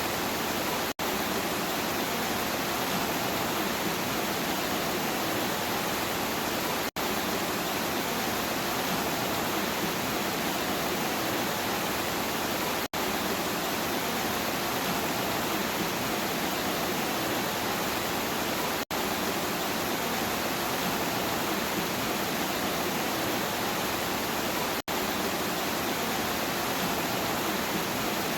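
Steady, dense rain hiss at an even level. It is broken by a very brief dropout about every six seconds, as at the seams of a looped recording.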